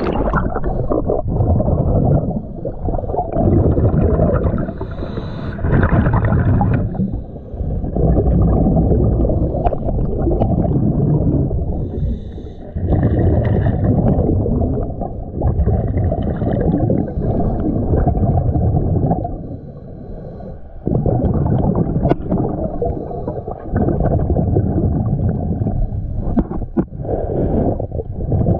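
Scuba diver breathing through a regulator underwater: exhaled bubbles rumble and gurgle in stretches of a few seconds, with short breaks between breaths.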